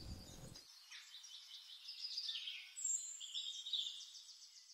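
Faint birdsong: high chirps and a quick trill of repeated notes.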